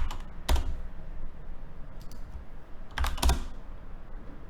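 A few keystrokes on a computer keyboard: one at the start, one about half a second in, and two close together about three seconds in, each a sharp click with a dull thud.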